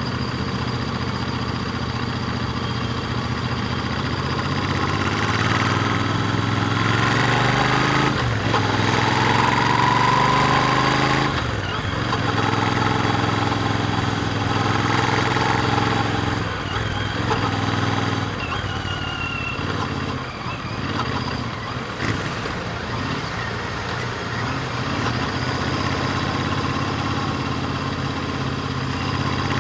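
Royal Enfield Interceptor 650's parallel-twin engine with its stock exhaust, heard from the rider's seat while riding. The revs climb and then drop at gear changes about a third of the way in, then hold steady before easing off and running unevenly for a while.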